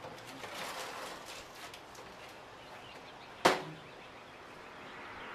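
Soft rustling over the first two seconds, then one sharp click or snap about three and a half seconds in.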